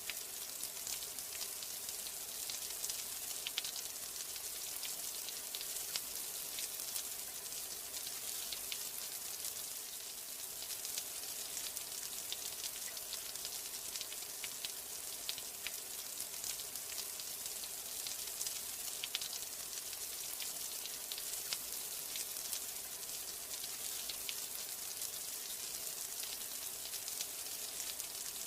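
Steady rain: an even hiss made up of many small drop ticks, with no let-up.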